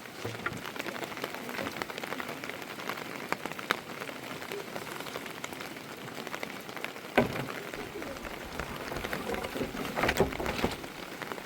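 Rain falling steadily, with many small drop hits. About seven seconds in there is a single sharp knock, followed by a low rumble for a few seconds.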